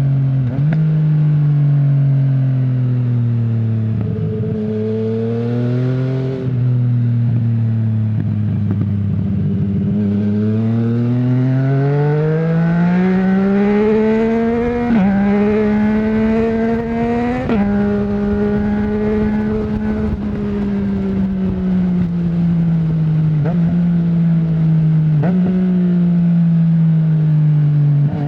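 2020 Yamaha MT-09's 847 cc inline three-cylinder engine running through an Akrapovic full exhaust with no dB killer. The revs fall away at first and hold low, then climb steadily under acceleration, with two quick upshifts about halfway through. After that the revs slowly sink as the throttle eases, with two brief dips near the end.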